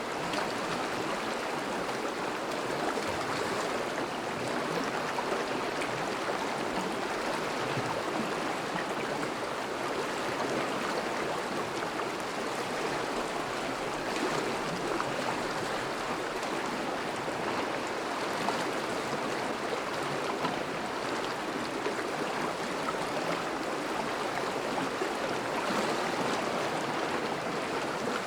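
Steady flowing water of a thawing river, a constant rushing and burbling of the current.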